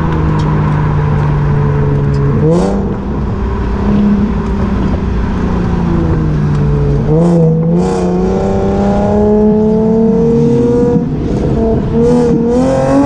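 Cammed Infiniti G35's V6 breathing through a Stillen exhaust with DC Sports headers and catless Invidia test pipes, idling steadily and then revved: a quick blip about two and a half seconds in, two short blips around seven seconds, a longer rev held up for a few seconds, then dropping and rising again near the end.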